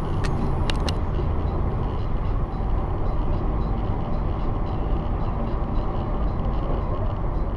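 Steady road and engine noise of a moving car as heard by a dash camera, with a few sharp clicks about a second in.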